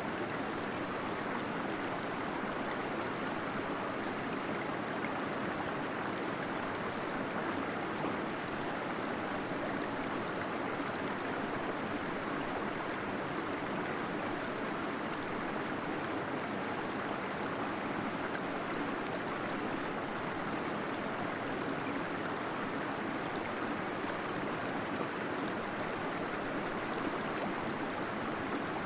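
Small waterfall splashing and gurgling steadily into water inside a cave.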